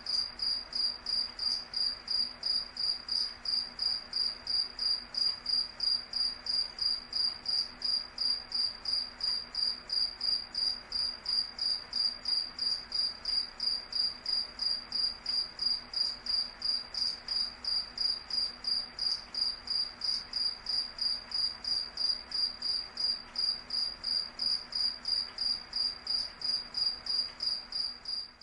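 A cricket chirping in a steady, even rhythm, about three high-pitched chirps a second.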